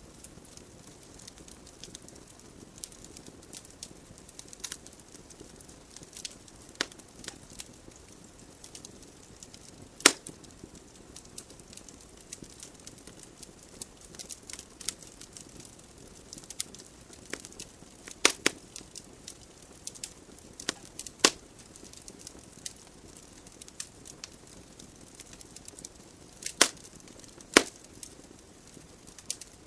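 Wood fire burning in a fireplace: a steady soft hiss of flames with scattered crackles and sharp pops of burning logs, the loudest about 10, 18, 21 and 27 seconds in.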